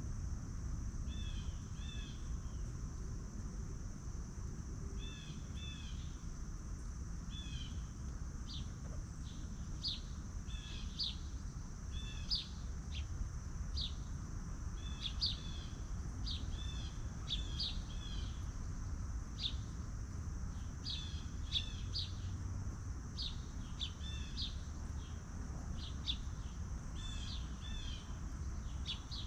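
Small birds chirping over and over in short, high notes, often in quick pairs, over a steady high-pitched hiss and a low background rumble.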